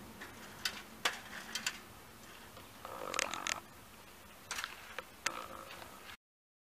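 Faint, steady sound of a passenger train running away down the line, with scattered sharp clicks over it. The sound cuts out abruptly near the end.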